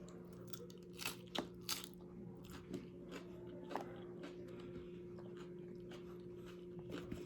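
Close-up crunching and chewing of tortilla chips from a plate of nachos, with a few sharper crunches about a second in and again near four seconds, over a steady low hum.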